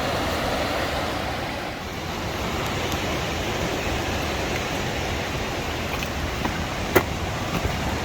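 Steady rushing of river water. A single sharp click about seven seconds in.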